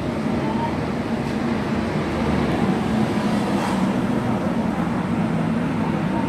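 BTS Skytrain electric train running, heard from inside the carriage: a steady rumble with a low hum.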